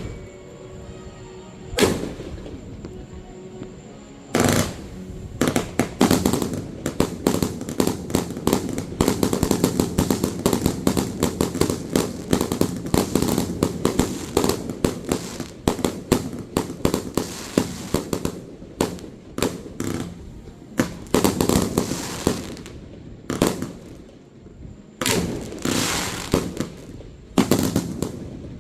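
Fireworks display: single shell bursts in the first few seconds, then a dense barrage of rapid bangs and crackle for about fifteen seconds. After that, a few clusters of bursts come with short gaps between them.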